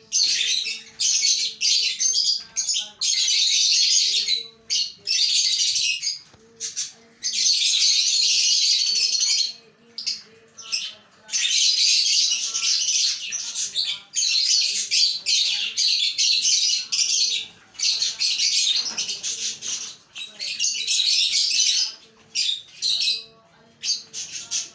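A bird giving harsh, hissing squawks in repeated bursts of up to about two seconds, with short gaps between them.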